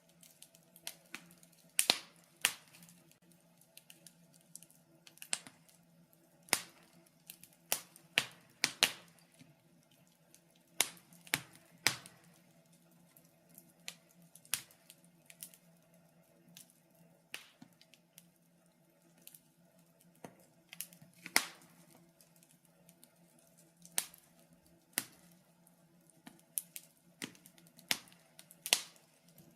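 Wood fire crackling in a fireplace: irregular sharp pops and snaps at uneven intervals, some much louder than others, over a faint steady low hum.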